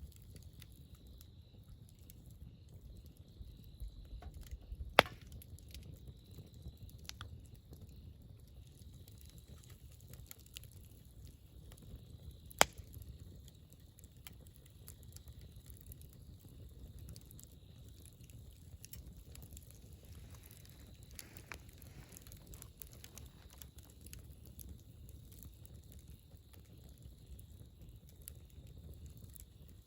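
Wood campfire burning with a low rumble and scattered small crackles, with two loud sharp pops, about five seconds in and again near halfway.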